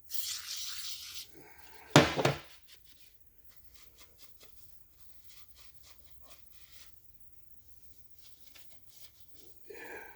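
Workshop handling noise while a cast-iron engine block is hand-cleaned: a short hiss, then one loud sharp knock about two seconds in, followed by faint rubbing and small clicks.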